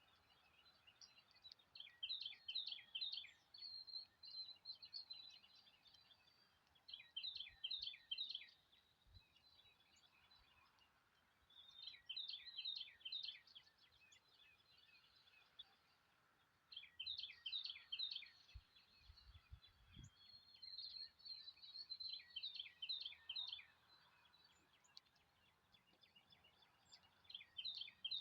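A songbird singing: short phrases of quick, falling notes, each about a second long, repeated every few seconds.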